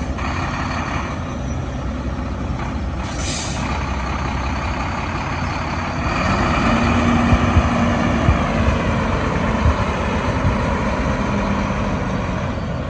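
Mack CXU Pinnacle semi truck's diesel engine running, with a short hiss of released air about three seconds in. From about six seconds the engine runs louder.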